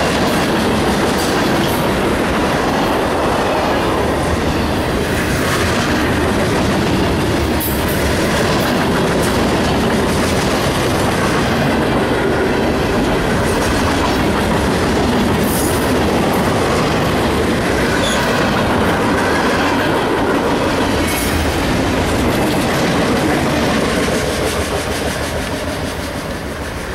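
Freight train cars rolling past close by: a steady rumble of steel wheels on rail with clickety-clack over the rail joints and a few brief high wheel squeals. It gets somewhat quieter near the end.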